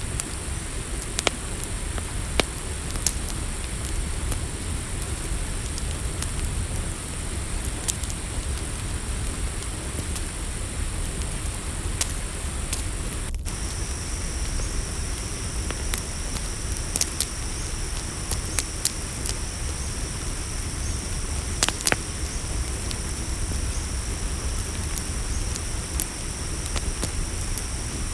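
Campfire crackling, with scattered sharp pops over a steady low rumble, against a continuous high chirring of crickets. About halfway in, the sound drops out for an instant and a second, lower cricket tone joins.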